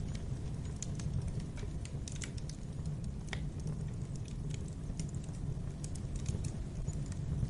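Fire burning in a fireplace: a steady low rumble of flames with irregular crackles and pops scattered throughout.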